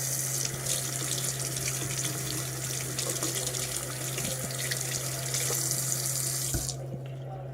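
Water running from a tap into a sink, shut off near the end, over a steady low hum.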